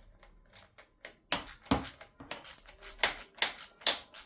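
Metal hand tools and hardware clinking and tapping: a run of sharp metallic clicks, a few at first, then coming quickly from about a second in.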